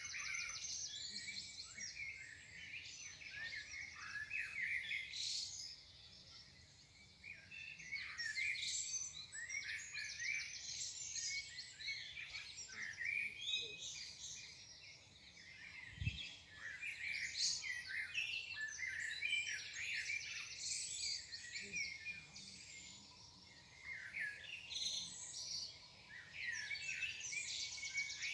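Morning chorus of several songbirds singing at once: dense, overlapping chirps and trills with short lulls between bursts. A single low thump comes about sixteen seconds in.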